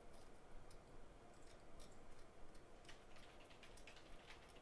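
Faint, scattered ticks and small scratches of a blade cutting through the underfill to separate the stacked RAM from the A11 CPU. The clicks come thicker about three seconds in.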